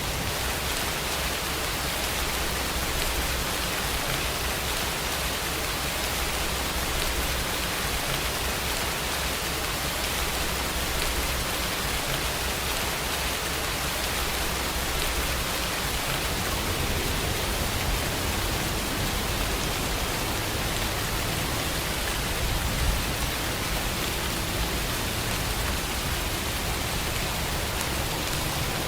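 Steady rain falling as an even, dense hiss, with a faint low rumble underneath and one brief sharper tap about three quarters of the way through.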